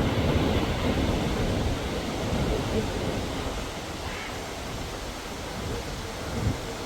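A steady rushing noise that eases off over the first few seconds.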